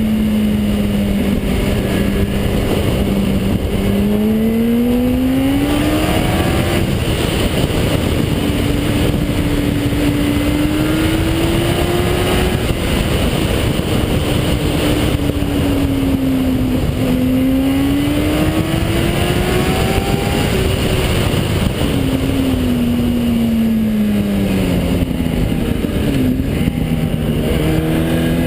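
Car engine driving, its note rising and falling several times as it speeds up and eases off, over steady road noise.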